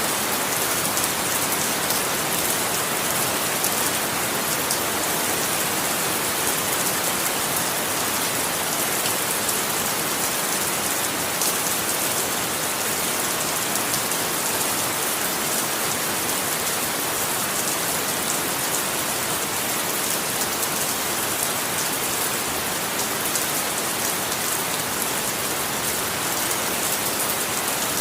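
Steady rain falling and pattering on a surface, an even hiss of many drops with no let-up.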